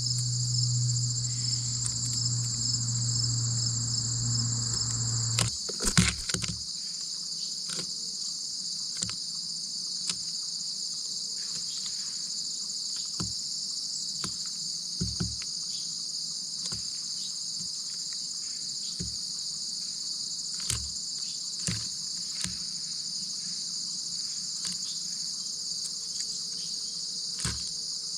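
Steady high-pitched chorus of insects in the background, with scattered sharp taps and knocks close by. A low hum runs under it and stops about five and a half seconds in.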